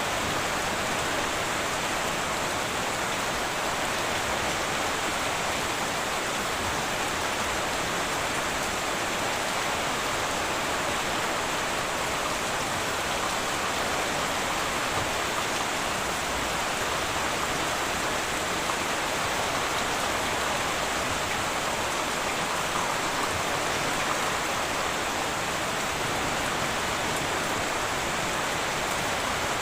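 Heavy rain falling steadily on a tin roof, an even, unbroken patter with no thunder.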